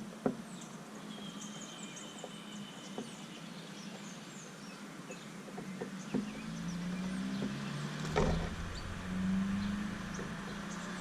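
Small songbirds chirping and trilling in short, scattered calls, with a low droning sound growing louder in the second half and a brief knock about eight seconds in.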